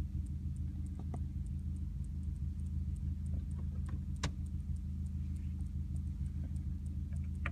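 Car engine idling steadily, heard from inside the cabin, with a few sharp clicks, the clearest about four seconds in.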